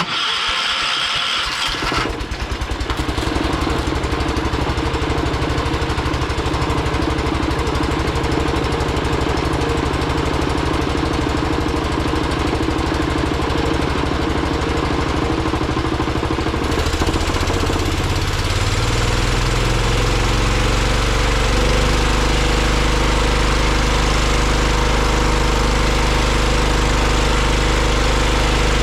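John Deere 212 garden tractor's single-cylinder Kohler engine cranked and catching about two seconds in, then running steadily. Partway through, its speed changes and it settles into a steady run. It is running less than perfectly and still needs carburetor adjustment.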